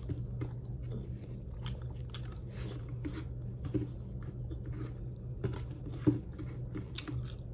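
A person chewing and biting food close to the microphone: soft, irregular mouth clicks and crunches, over a steady low hum.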